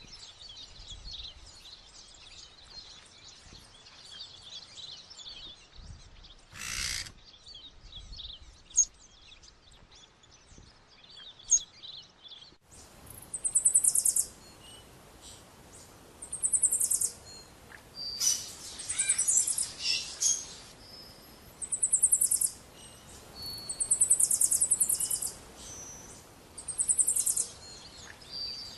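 Wild birds calling: first a busy chorus of many high chirps, then, after an abrupt change about halfway through, one bird repeating a short, high, buzzy trill about every two seconds.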